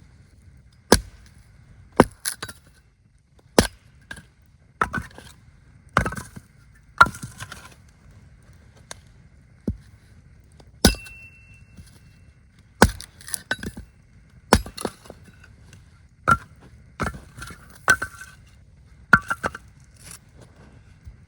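Wood being chopped: a series of sharp, irregular strikes about once a second, some followed by a short rattle of splintering wood.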